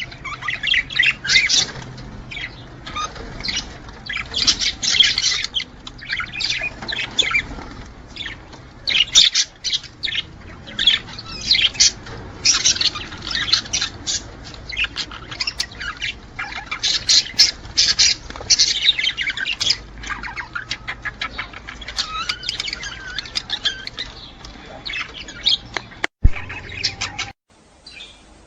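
Budgerigars chattering: a dense, continuous run of rapid chirps, warbles and squawks, the excited song that male budgies give when courting. Near the end the sound breaks off abruptly with a click and carries on fainter.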